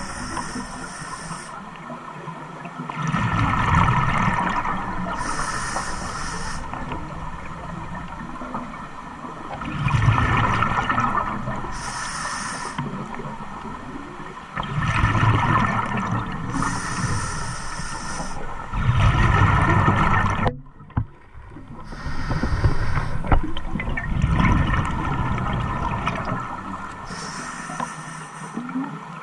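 An engine running, its sound swelling and easing in a slow, regular cycle about every five to six seconds, with a hiss that comes and goes on each cycle. The sound breaks off briefly about two-thirds of the way through.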